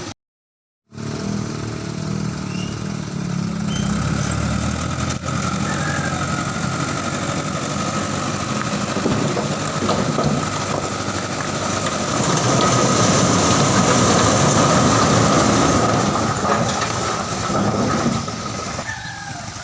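A motor vehicle's engine running close by, steady and loud. It grows louder through the middle and eases off near the end, after a brief dropout at the very start.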